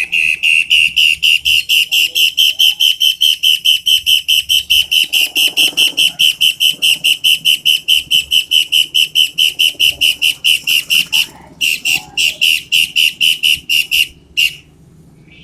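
A toed matahari bird singing a loud, sharp, rapid string of identical whistled notes on one pitch, about five a second. The string breaks off briefly near the end, resumes, and stops with one last note.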